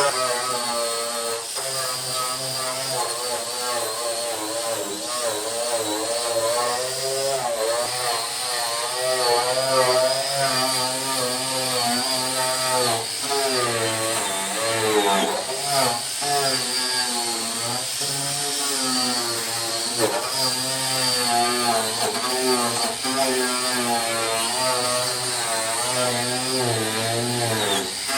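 A power tool's motor running under load, its pitch wavering up and down as the load changes, with a steady high whine over it.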